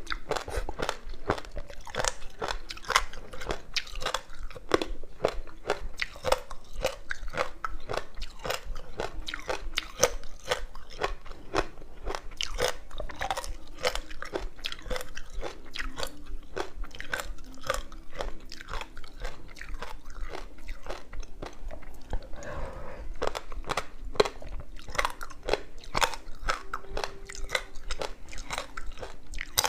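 Frozen passion fruit ice with sesame seeds being bitten and chewed close to the microphone: dense, rapid, sharp crunching with many cracks a second.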